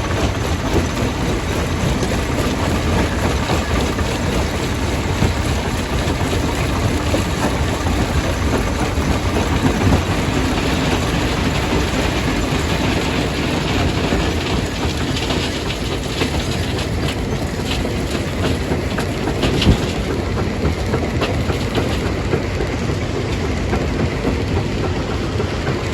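Jaw crusher running and crushing rock: a steady, heavy mechanical rumble overlaid with the clatter and cracking of stones, and one sharper crack about twenty seconds in.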